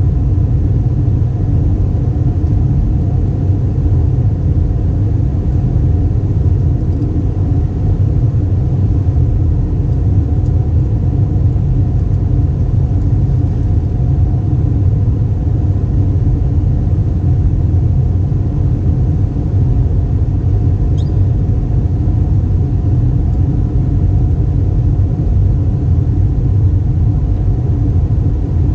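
Airbus A320 cabin noise in flight: a loud, steady rumble of engines and airflow with a few steady hum tones, unchanging throughout.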